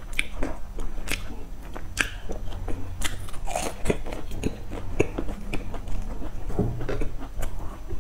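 Close-miked biting and chewing of flaky baked sesame pastry cakes: irregular crisp crackles and crunches of the flaky crust as it is eaten.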